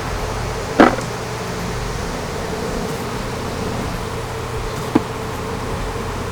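Honeybees buzzing in a steady hum around an open hive, which is drawing attention from bees of other colonies. Two sharp knocks cut through, a louder one about a second in and a shorter one about five seconds in.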